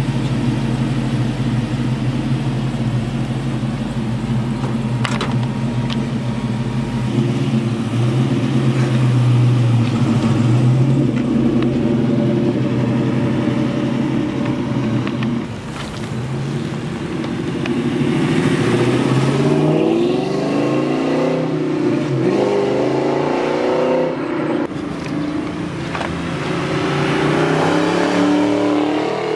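LS3 V8 of a 1969 Camaro running as the car moves off at low speed with a steady engine note. In the second half it revs up and eases off several times as it accelerates past, loudest near the end.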